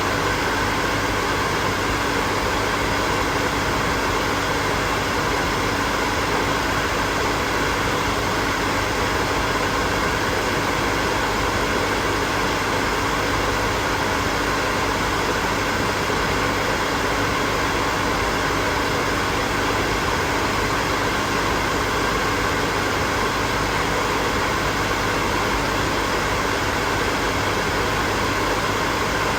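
Hair dryer running steadily: a constant, even rush of blown air with a faint low hum underneath, unchanging throughout.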